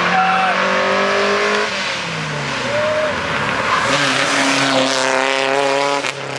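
Cars accelerating hard, engine pitch rising under full throttle, dropping at a gear shift about two seconds in, then another engine climbing in pitch from about four seconds in until it cuts off near the end.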